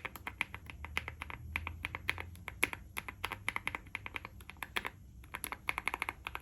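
Typing on a WOB Rainy75 Pro aluminium-cased mechanical keyboard with an FR4 switch plate: a fast, steady run of keystroke clicks with a brief pause near the end.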